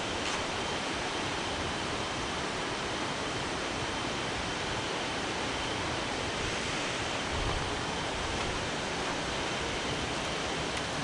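Waterfall: rushing water making a steady, even roar with no breaks.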